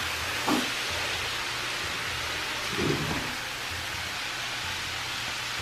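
Cauliflower rice and ground meat sizzling steadily in a hot skillet while a wooden spatula stirs it, with two brief louder scrapes of the spatula, about half a second in and near three seconds.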